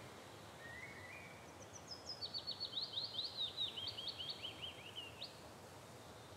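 A songbird singing: a short chirp about a second in, then a quick run of high, sharply sliding notes for about three seconds, over a faint steady outdoor hiss.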